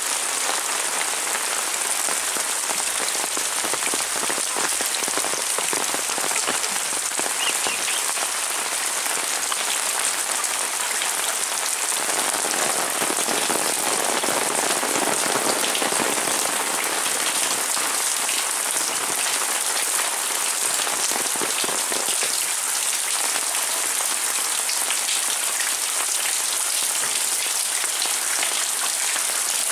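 Heavy rain falling steadily, a dense hiss full of individual drop hits. It grows slightly fuller and heavier between about 12 and 22 seconds in.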